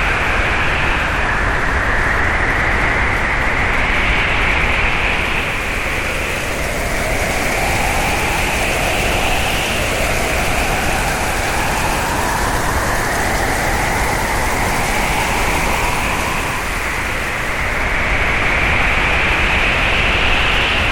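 Hurricane wind blowing hard and steadily, with a whistling tone that slowly rises and falls in pitch and a second, lower whistle rising in the middle.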